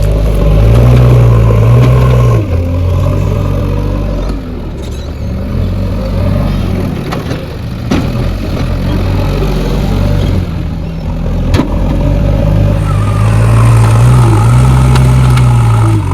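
Backhoe loader's diesel engine working, revving up under load about a second in and again near the end, with a few sharp knocks from the machine in between.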